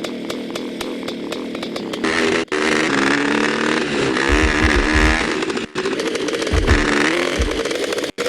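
Motorcycle engine revving, its pitch rising and falling, in short clips cut together with abrupt breaks about two and a half, five and a half and eight seconds in.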